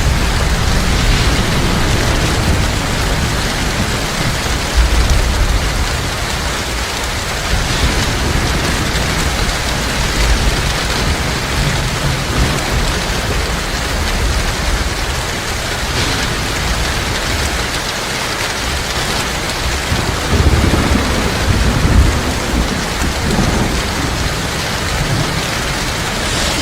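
Heavy rain pouring steadily, with low rolling thunder rumbles underneath that swell loudest about twenty seconds in.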